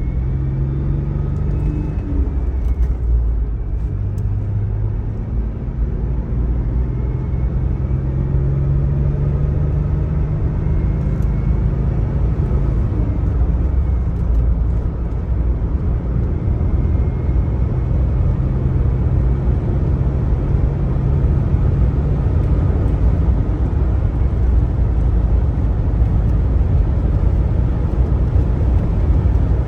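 1999 Chevrolet Blazer 4x4's 4.3-litre V6 running as the truck drives, a steady low rumble whose engine note drops and rises a few times with the speed.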